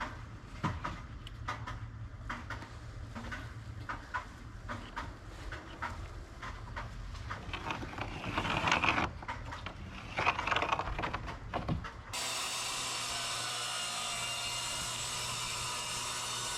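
Scattered knocks and clicks of wood being handled, with two louder scraping stretches past the middle. About twelve seconds in it changes abruptly to a steady rushing hiss.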